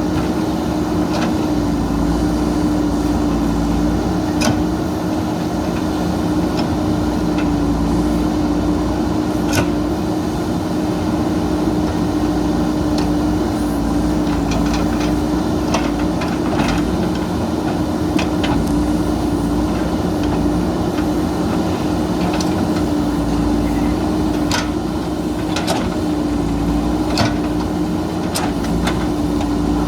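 JCB backhoe loader's diesel engine running steadily at a constant pitch, with occasional sharp knocks and clanks.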